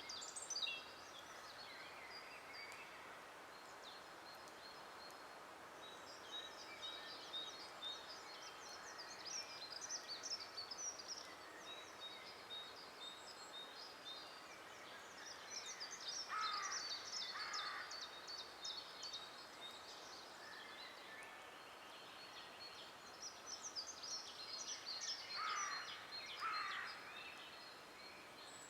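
Several birds singing at once in a forest, a dense weave of high chirps and trills. Twice, about halfway through and again near the end, a pair of short, lower calls cuts through.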